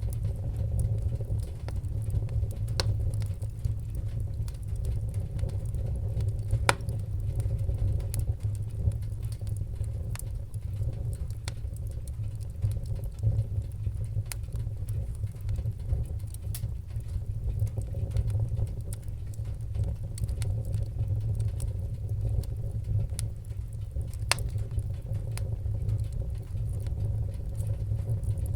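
Wood-burning fire crackling: scattered sharp pops and snaps, a few louder than the rest, over a steady low rumble.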